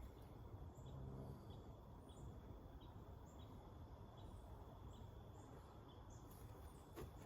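Near silence: faint low room hum with a faint, high cricket chirp repeating about every half second.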